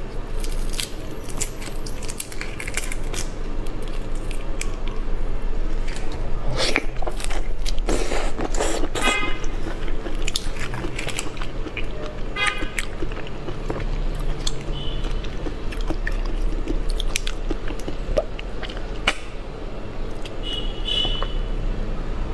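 Close-miked eating: chewing and biting with many wet clicks, smacks and crunches, over a steady low hum.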